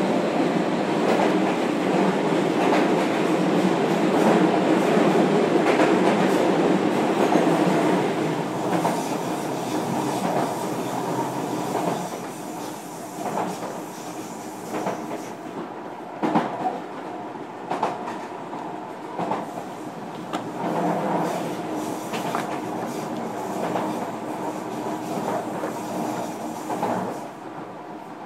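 JR Kyushu 305 series electric train running, heard from inside motor car MoHa 305-106: a steady rumble and motor hum, with clicks of the wheels passing over rail joints. It is louder for about the first eight seconds, then drops and stays quieter.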